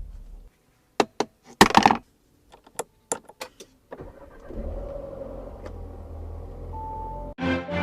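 A run of short clicks and clatters, then the Audi Q3's engine starts about four seconds in and idles with a steady low rumble. Music comes in near the end.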